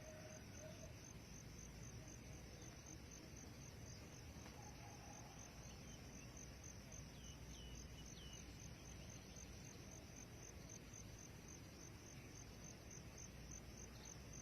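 Faint outdoor ambience of insects chirring steadily in a high, fast-pulsing trill, with a few faint short bird chirps about halfway through.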